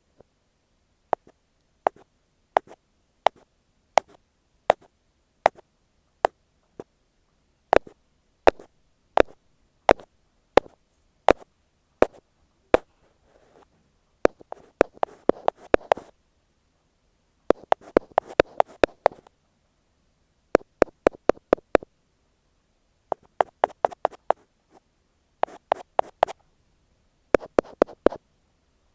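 An ear pick tapping directly on an earphone microphone. Sharp single taps come about every two-thirds of a second at first; from about halfway there are quicker runs of taps with rubbing between them, and near the end short bursts of rapid taps.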